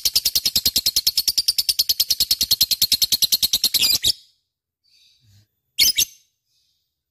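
Lovebird chirping in a fast, even string of high chirps, about ten a second, which stops about four seconds in; after a pause comes one loud, short call near six seconds.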